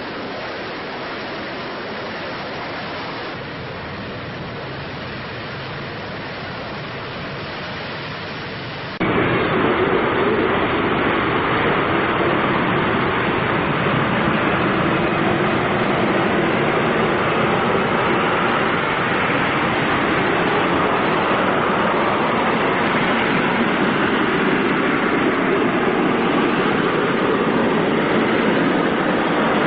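Fighter jet engine noise, a steady, loud rushing roar. About nine seconds in it jumps abruptly louder.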